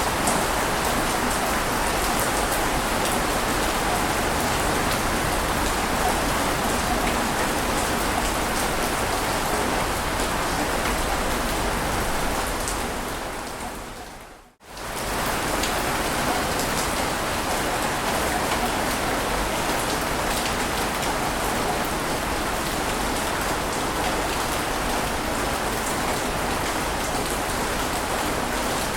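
Ocean surf: a steady, even rushing wash of breaking waves. It fades down to a moment of silence about fourteen and a half seconds in, then comes straight back up, where the looped track restarts.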